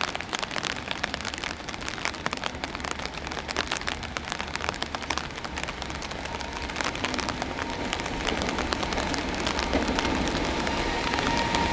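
An EF210 electric locomotive hauling a container freight train approaching, its rumble growing steadily louder over the second half, with a steady whine appearing near the end. A dense patter of small ticks, like rain, runs under it.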